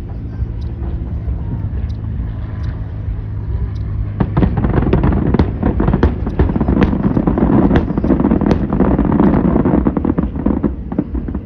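Fireworks going off: scattered pops at first, then about four seconds in a dense run of bangs and crackles lasting some six seconds, easing off near the end. A steady low hum runs underneath.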